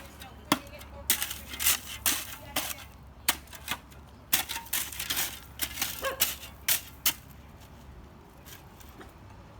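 Shovel working through construction rubble: a quick, irregular run of sharp clinks and scrapes that stops about seven seconds in.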